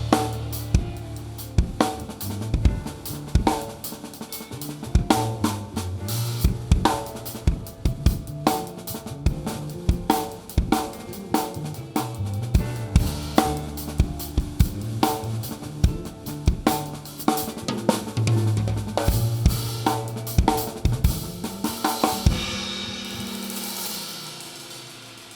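Rock band playing live, with the drum kit loud and close: kick, snare, hi-hat and cymbals over bass and guitar. Near the end the drums stop and a cymbal rings out while the band's notes fade.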